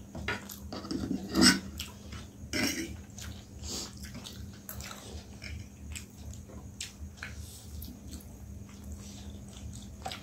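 Close-up eating sounds: chewing with irregular wet clicks and mouth smacks as chicken wings are bitten and eaten, a few louder smacks in the first four seconds and softer chewing after. A faint steady hum runs underneath.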